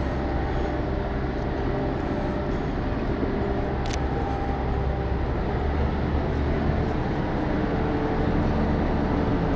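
Steady low rumble of city street traffic, with a brief click about four seconds in.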